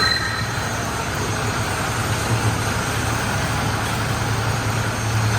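Engine of a Chang Tractor F16M sugarcane harvester running steadily, a low hum with a mechanical rush over it.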